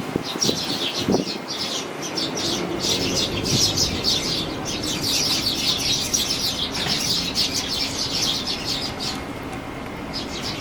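Fledgling sparrows chirping in rapid, dense runs of high notes, over a steady noise of strong wind.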